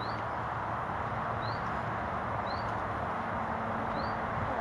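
A bird chirping, short rising chirps repeated about once a second over a steady rushing background noise.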